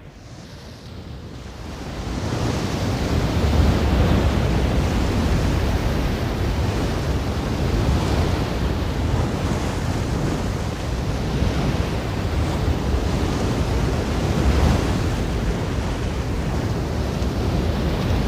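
Ocean waves washing in, a steady rushing surf with a low rumble and slow surges. The sound fades in over the first two seconds.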